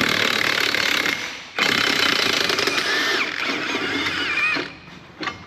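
A power tool running in two bursts on a bulldozer's track undercarriage, first about a second long, then, after a short break, about three seconds with a wavering squeal over it.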